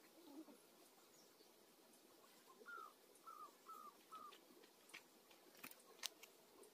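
Near silence with a faint bird call of four short falling notes a few seconds in, and a few faint clicks near the end.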